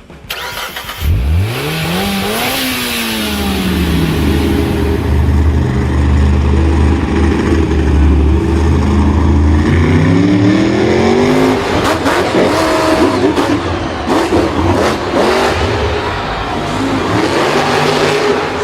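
A vehicle engine revs up sharply about a second in and falls back, runs steadily, then revs up again about halfway through. The second half turns rougher, with many short clattering knocks over the engine.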